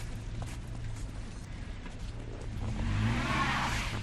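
Road traffic: a steady low rumble of car engines, with one vehicle passing close and swelling up about three seconds in.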